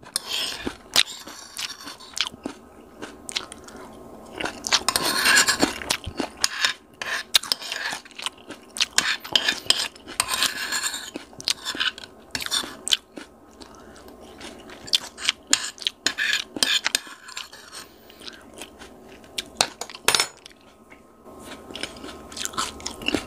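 Mouth sounds of chewing and crunching chopped fresh chili peppers, with a metal spoon clinking and scraping against the bowl as the last bits are scooped up. The chewing is uneven, with many sharp crunches.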